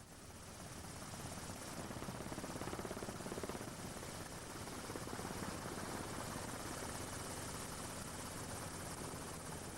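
Aircraft in flight, a steady engine drone with wide rushing noise that fades in over the first couple of seconds and then holds even.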